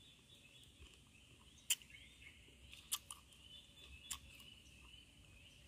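Faint crunching of crisp unripe native mango being chewed, with a few sharp crunches about two, three and four seconds in.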